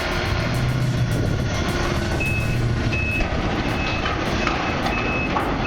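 A heavy vehicle's reversing alarm beeping at a steady rate, about once every 0.7 s, starting about two seconds in, over the steady low hum of a diesel engine running.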